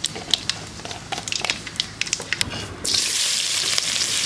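Mustard seeds popping and crackling in hot coconut oil in a metal pan, a scatter of sharp pops, as spices are tempered. About three seconds in it changes abruptly to a loud, steady sizzle of shallots frying in the oil.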